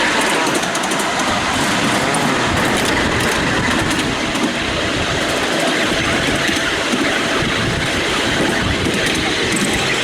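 Miniature railway train hauled by a BR class 31 miniature locomotive, running steadily along the track as heard from a passenger car: a continuous rumble of wheels on rail with faint clicks.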